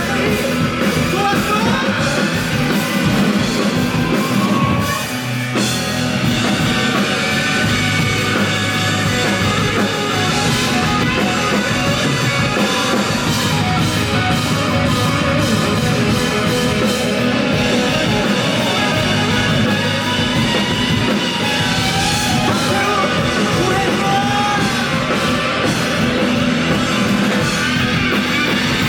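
A rock band playing live and loud, with drum kit and guitars, easing back for a moment about five seconds in.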